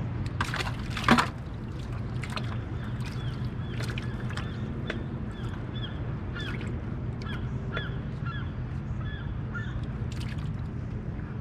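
A bird calling over and over with short squeaky chirps from a few seconds in until shortly before the end, over a steady low rumble. A sharp knock about a second in is the loudest sound, with a few lighter clicks around it.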